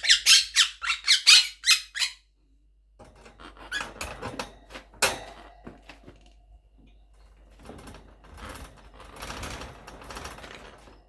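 Quaker parrot giving a fast run of sharp, high-pitched squawks, about five a second, for the first two seconds, the sound of an agitated bird. After a short pause come quieter scratching and rustling sounds with a few clicks.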